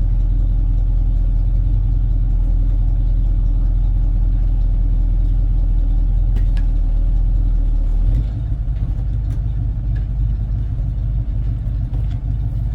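The 1984 tow truck's engine running steadily. About eight seconds in, its low drone changes pitch and turns rougher and a little quieter.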